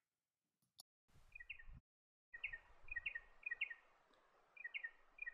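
Spotted pardalote calling: a short, high two-note call repeated about six times over faint background hiss. A brief click comes about a second in.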